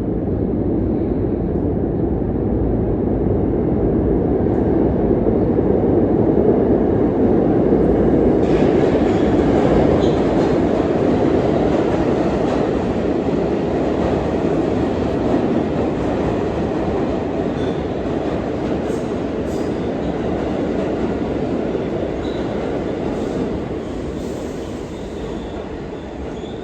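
New York City Subway A train running through an underground station: a steady rumble of wheels on rail, loudest about a third of the way in, then slowly fading.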